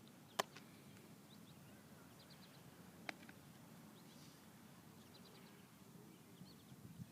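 Near silence: quiet outdoor ambience with faint bird chirps and two sharp clicks, one just after the start and one about three seconds in.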